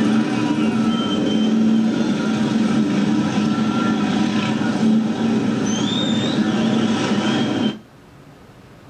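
Motorcycle engines running in a dense, steady mass, with a couple of short rising whistle-like tones about six seconds in. The sound cuts off abruptly near the end.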